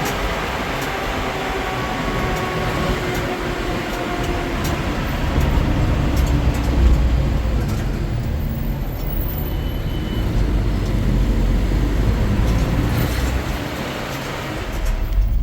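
A motor vehicle driving: a steady low rumble of engine and road noise that grows heavier about five seconds in.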